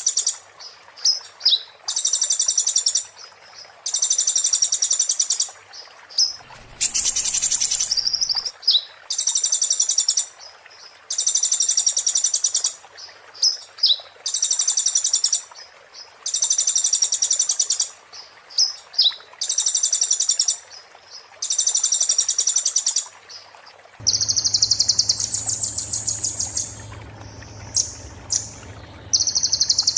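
Konin (kolibri ninja, a sunbird) singing: high, rapid, sharp trills about a second long, repeated one after another with short chirps between, the 'muntah beling' style of song. A brief rustling noise comes about seven seconds in, and a low hum joins under the song near the end.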